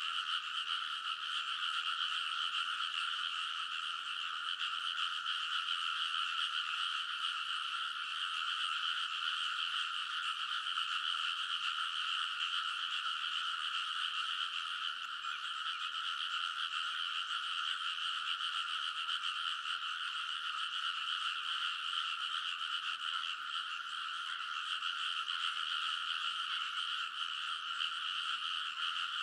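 A dense chorus of many frogs calling in a rice paddy, their croaks overlapping into a steady, unbroken din that neither builds nor fades.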